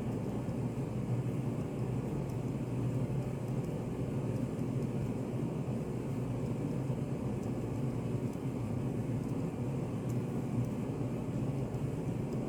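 Steady low rumbling ambience of a study café, an even hum-like noise that does not change, with a few faint light ticks.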